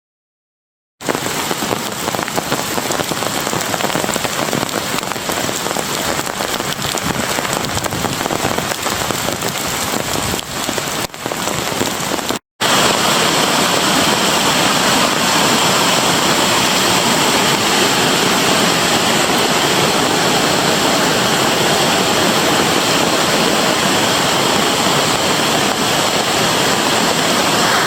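Heavy rain and flood runoff making a steady rushing noise. It breaks off briefly about twelve seconds in and comes back louder.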